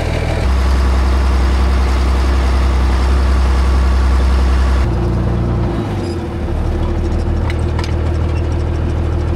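Tractor engine running steadily. It gets heavier and louder about half a second in, then changes abruptly just before five seconds to a different steady engine note.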